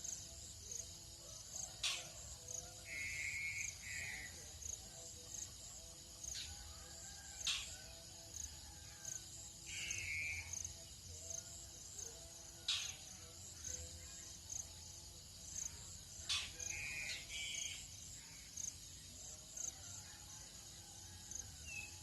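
Tropical dawn chorus of insects and birds: a steady high insect drone with a fast pulsing beat, short trilled bird calls every several seconds, and a sharp single chirp about every five seconds.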